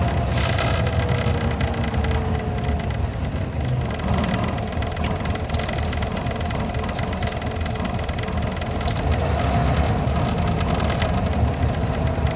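Isuzu Gala coach's V-type diesel engine running steadily while driving, heard from inside the cabin along with road noise. In the first few seconds a whine falls in pitch.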